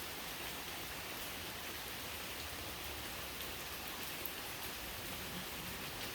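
Steady rain falling: an even, constant hiss with the occasional louder drop ticking.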